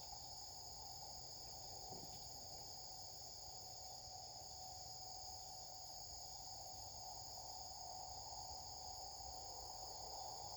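Faint, steady chorus of insects: a continuous high shrill with a lower steady hum beneath it.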